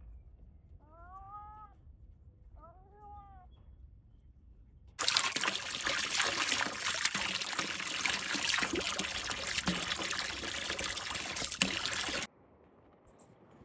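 Two short, high-pitched animal calls that rise and fall, then a loud rush like water pouring that starts suddenly about five seconds in and cuts off about seven seconds later.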